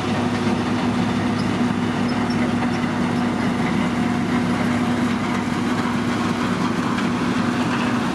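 Diesel engine of heavy road-construction machinery running steadily with a constant hum.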